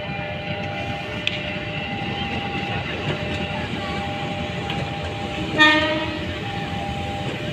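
A passing train rumbling along the track, with one short horn blast about five and a half seconds in.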